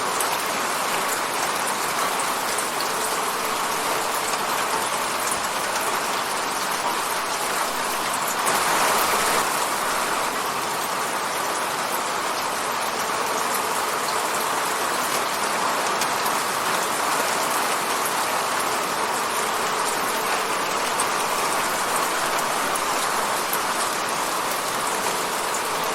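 Steady rain hitting a window pane, a continuous hiss with fine drop ticks, briefly heavier for a second or so about nine seconds in.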